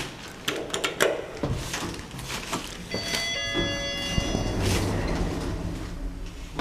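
Lift sounds: a few clicks of the door mechanism in the first second, then a low hum as the doors slide and the car runs. About three seconds in comes a ringing chime of several pitches that lasts over a second.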